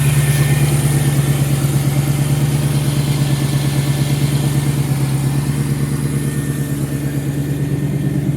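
1994 TVR Chimaera's Rover-based V8 idling steadily just after a cold start, a loud, low, evenly pulsing exhaust note.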